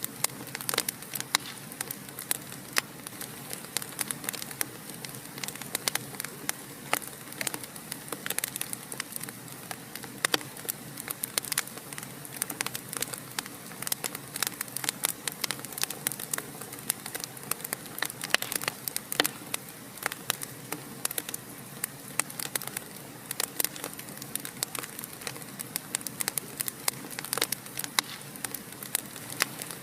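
Wood fire burning in a fireplace, crackling continuously: dense, irregular snaps and pops over a steady soft hiss, with occasional sharper, louder pops.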